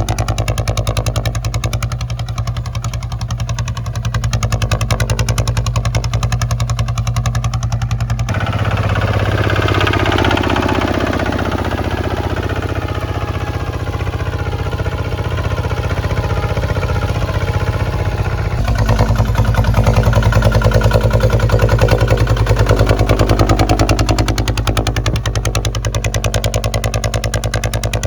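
Kubota ZT155 single-cylinder diesel engine running steadily with a rapid, even firing beat. The sound changes abruptly about eight seconds in and again about eighteen seconds in, becoming noisier in between.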